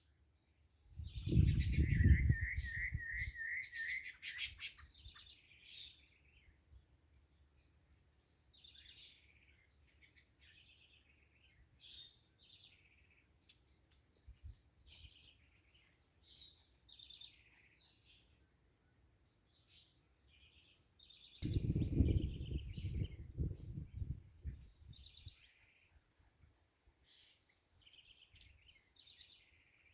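Small birds chirping and calling in short repeated phrases, with a wavering trill near the start. Two bursts of low rumble, a few seconds each, about a second in and again past the twenty-second mark, are the loudest sounds.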